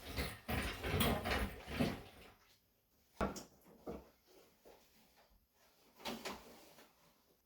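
Intermittent metal clunks and scrapes from working a Subaru EJ25 engine and its transmission apart where they are stuck together. A flurry of knocks and scraping comes first, then a sharper single knock about three seconds in, and a few lighter knocks after.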